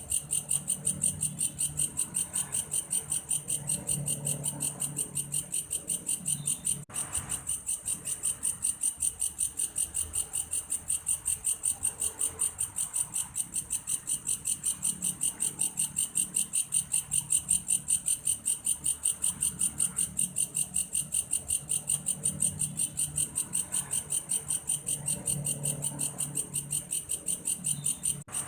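Belalang kayu (a grasshopper) calling in a steady, rapid train of high-pitched, cricket-like pulses, a few a second, with a momentary break about seven seconds in.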